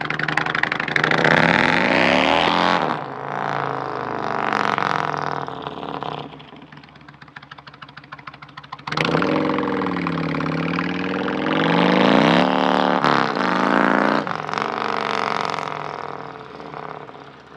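Honda Navi 110cc single-cylinder engine revving up under acceleration while riding. It eases off about six seconds in, picks up sharply again about nine seconds in, and dies down near the end.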